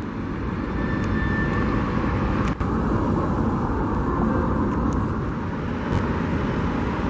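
Steady roar of vehicle noise outdoors, slightly louder through the middle.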